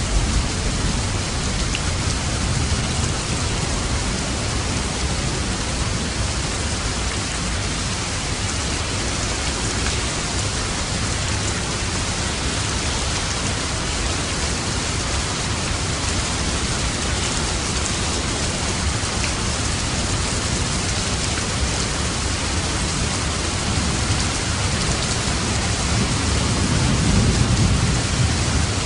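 Steady, heavy rainfall hissing on surfaces, with a low rumble of distant thunder swelling briefly near the end.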